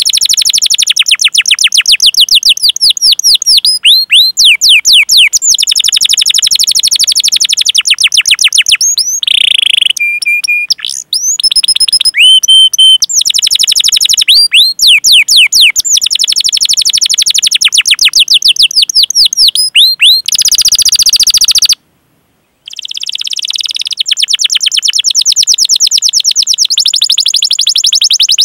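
Domestic canary singing long rolling trills of rapid repeated downward-sweeping chirps ("cuit cuit"), broken by a few short held notes and a brief pause about three-quarters of the way through.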